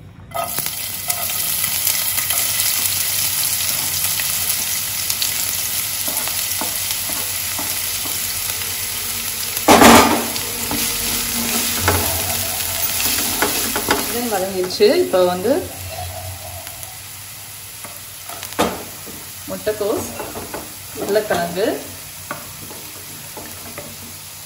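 Chopped onion and vegetables sizzling in hot oil in a pan as they are sautéed and stirred, the sizzle starting suddenly at the outset. There is a loud knock about ten seconds in. The sizzle grows quieter in the last third, broken by short scraping sounds of stirring.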